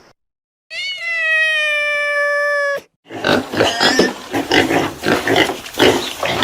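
One long, steady, high-pitched animal call that cuts off suddenly, then after a brief gap pigs grunting and squealing in a dense, continuous run.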